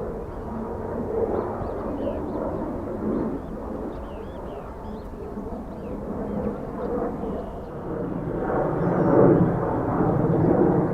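Jet airliner engines rumbling, growing louder about eight seconds in.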